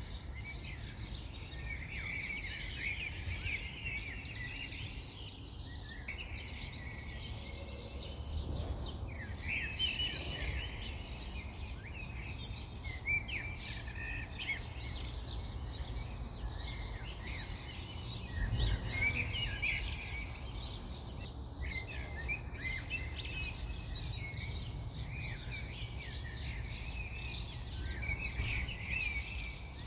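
Several birds chirping and calling almost without pause, short twittering notes overlapping one another, over a steady low rumble.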